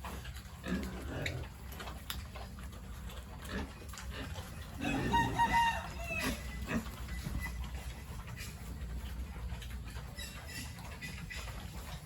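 Chickens calling, with one louder drawn-out call about five seconds in and fainter calls near the end, over a low steady hum.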